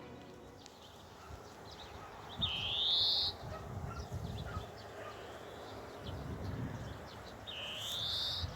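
A bird calls twice, each a rising, slurred whistle lasting about a second, with short chirps from other birds between.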